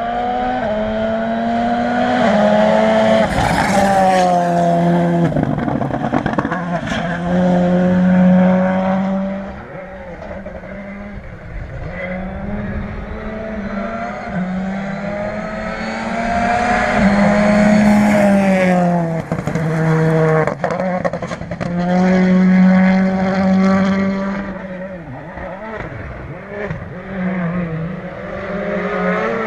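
Rally car on a gravel stage, its engine revving hard and changing gear again and again, pitch climbing and dropping back with each shift and lift. It is loudest twice as it comes closest, with a falling pitch as it goes by, and a few sharp cracks.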